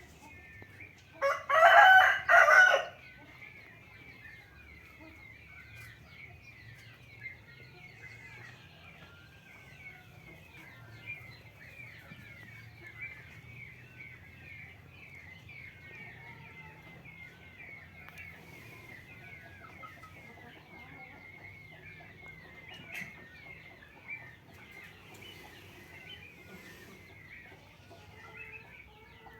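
One loud crowing call from a fowl, in two or three parts lasting about a second and a half, starting about a second in, over steady high chirping throughout.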